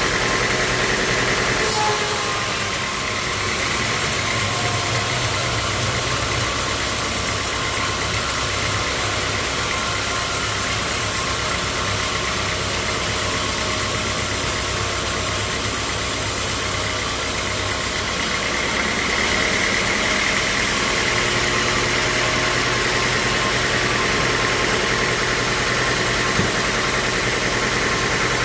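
Sawmill machinery running steadily: a motor hum under a constant high-pitched whine and hiss. The sound changes about two seconds in and again about 18 seconds in.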